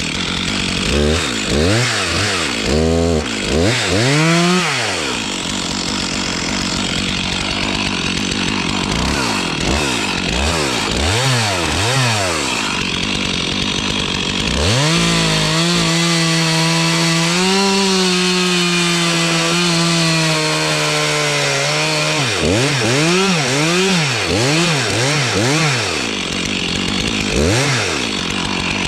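Stihl chainsaw revved in a series of short throttle blips. In the middle it is held at high revs for about seven seconds, the pitch sagging slightly as it works through wood. Then come more quick revs near the end.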